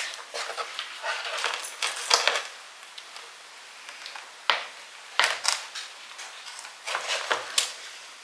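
A blade cutting into a dahlia tuber clump as a tuber is separated from the crown: scattered crisp clicks and crackles with a few sharper snaps, mixed with handling noise.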